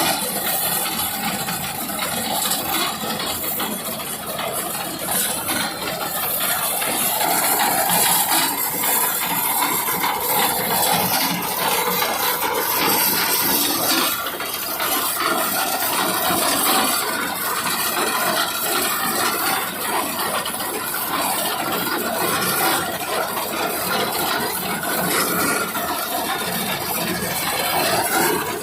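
Tractor engine running under the steady clatter of a tractor-mounted reaper binder cutting and binding wheat.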